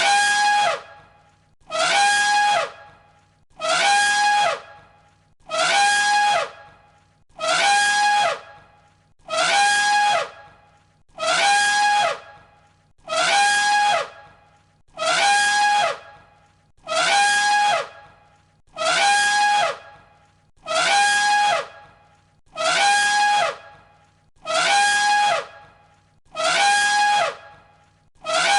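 An elephant trumpeting, played on a loop: the same short blast, a held high note that ends in a falling slide, repeats identically about every second and three-quarters, some sixteen times.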